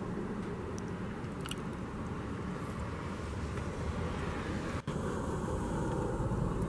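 Steady low rumble with hiss, cut by a very brief dropout nearly five seconds in.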